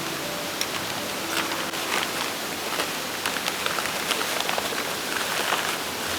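Steady rushing of a mountain stream, with many small clicks and rustles over it through the middle stretch.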